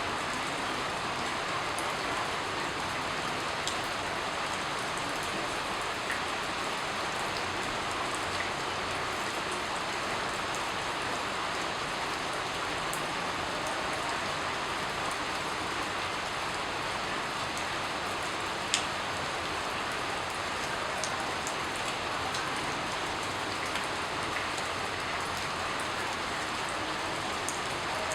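Steady rain falling, an even hiss with scattered individual drops ticking on top, one sharper drop about two-thirds of the way through.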